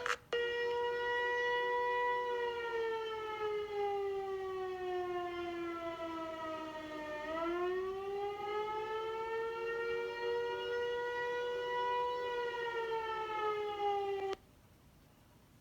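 Outdoor tornado warning siren wailing with a slow, steady rise and fall of pitch. It holds one tone, sinks lower over several seconds, climbs back up, holds again and then cuts off suddenly near the end.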